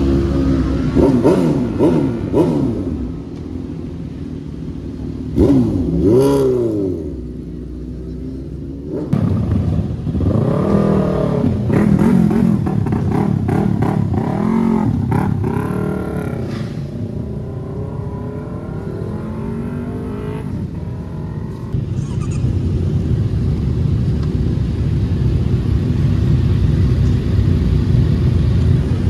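Sport motorcycle engines revved hard in a series of quick blips, the pitch shooting up and falling back, then running more steadily.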